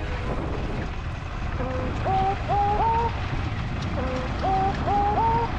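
Steady motorcycle riding noise, a low engine and wind rumble, under background music in which a short rising melodic figure repeats about every two and a half seconds.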